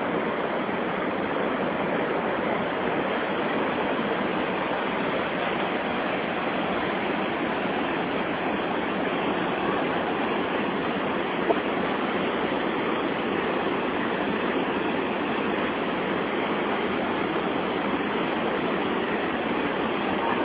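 Steady rush of the Santo Antônio falls, whitewater rapids on the Madeira River, an even roar of water. A single brief click about halfway through.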